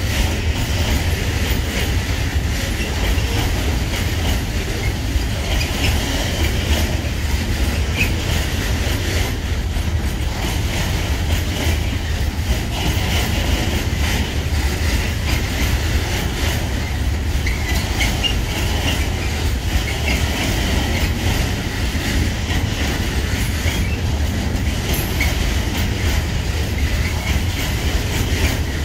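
Loaded timber freight wagons rolling past: a steady low rumble with wheels clicking over rail joints, and a high wheel squeal that comes and goes.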